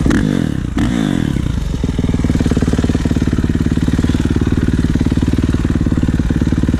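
Kawasaki KX450 dirt bike's single-cylinder four-stroke engine running. Its revs swing down and back up in the first couple of seconds, then it settles into a steady idle.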